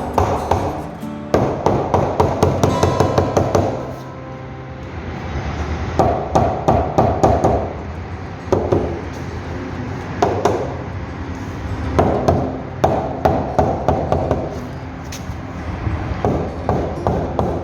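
Hammer tapping in quick runs of about four or five taps a second, several times over, with background music underneath.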